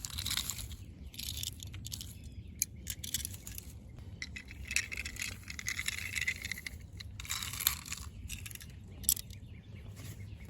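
Plastic toy construction vehicles being handled and pushed through loose dirt, a gritty scraping and crunching with small plastic clicks and rattles and a few sharper ticks near the end.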